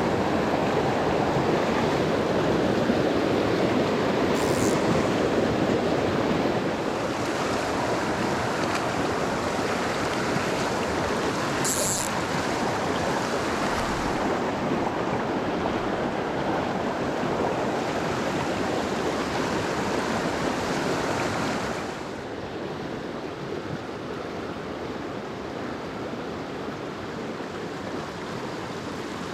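Mountain stream water rushing steadily over rocks, a continuous hiss that drops to a somewhat quieter level about three quarters of the way through.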